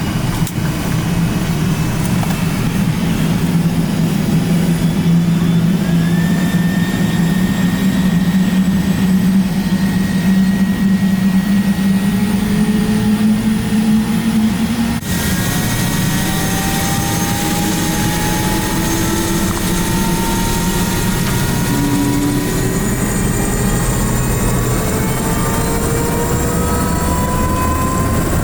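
Helicopter turbine engine and rotor running loudly with a steady low hum and a high whine. About halfway in the sound breaks off suddenly, and afterwards the turbine's whine climbs slowly and steadily in pitch.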